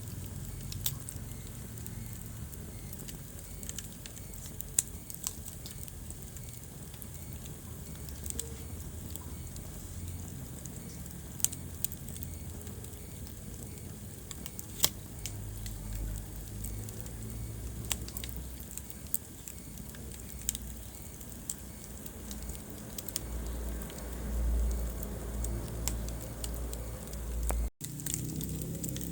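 Wood fire crackling in a fireplace: a low, wavering rumble of flames with scattered sharp pops and snaps from the burning logs. The sound cuts out for an instant near the end.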